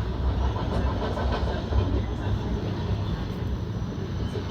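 Train running, a steady low rumble with a few faint clicks over it.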